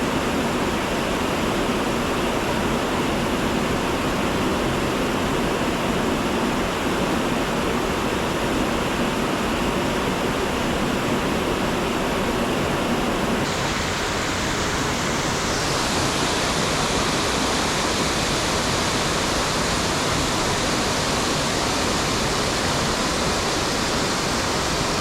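Steady rush of falling and flowing river water at a waterfall. About halfway through the sound turns brighter and hissier, with less low rumble.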